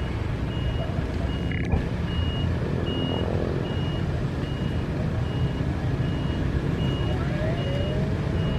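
A steady low engine rumble with a high electronic beep repeating evenly, a little faster than once a second, in the manner of a vehicle's reversing alarm.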